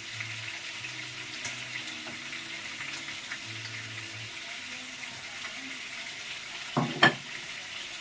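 Food frying in hot oil in a pan: a steady crackling sizzle. About seven seconds in, a sharp double knock, like a utensil striking the pan, is the loudest sound.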